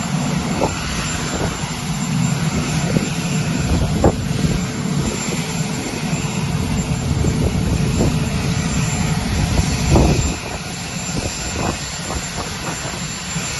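Steady aircraft engine noise on an airfield, with a few short knocks now and then, the loudest about four seconds and ten seconds in.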